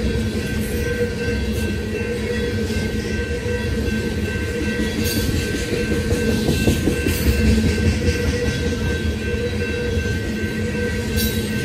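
Freight train of tank cars rolling past, the steady rumble of steel wheels on rail with clickety-clack from the trucks and a few sharp knocks about 5, 7 and 11 seconds in.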